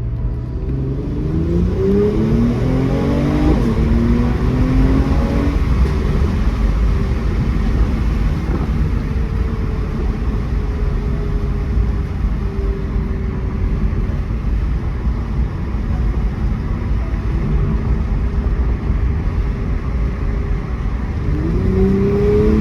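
2018 Mercedes-AMG E43's twin-turbo V6 accelerating, its pitch rising for a few seconds from about a second in, then holding a steady cruise, and climbing again near the end.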